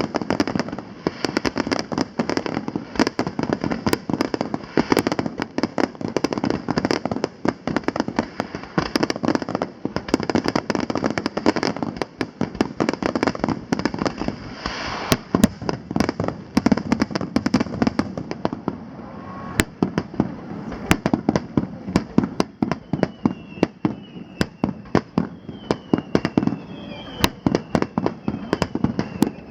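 Aerial fireworks display: a dense, continuous barrage of sharp bangs and crackling reports. Near the end several short falling whistles sound among the bangs.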